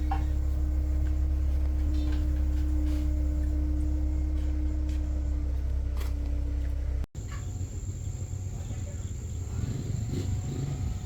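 Box truck's diesel engine running steadily with a low hum. About seven seconds in the sound cuts abruptly to a quieter scene with a steady high-pitched tone.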